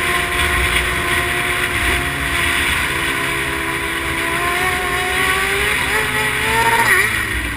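Motorcycle engine running steadily, then revving up with its pitch climbing in the last few seconds, loudest about seven seconds in, before the pitch drops away.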